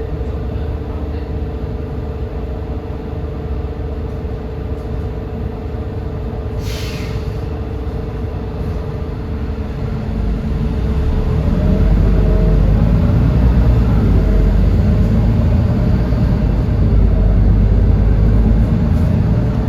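Edison Motors Smart 110G natural-gas city bus, its Doosan GX12P engine running with a steady hum and whine. A short burst of air hiss comes about seven seconds in. From about ten seconds in the engine grows louder and heavier, with a whine that wavers up and down.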